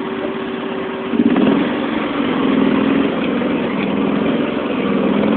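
John Deere 325 lawn tractor engine running, getting louder and dropping in pitch about a second in as it takes load, then holding steady.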